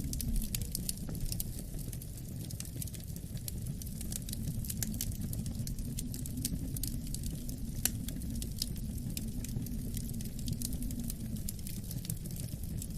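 Wood fire crackling in a fireplace with frequent small sharp pops, over a low, steady wind rumble that slowly swells and eases.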